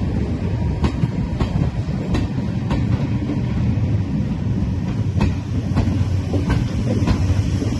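Diesel-hauled heritage train running, with a steady low engine sound and the wheels clicking over rail joints about every two-thirds of a second.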